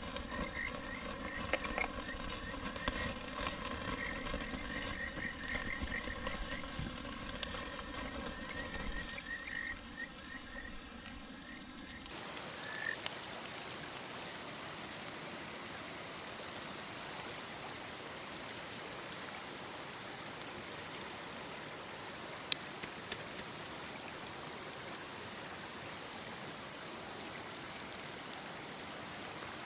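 Frogs calling in quick, repeated chirps over running water. About twelve seconds in it switches abruptly to the steady babble of a small stream alone, with a single sharp click later on.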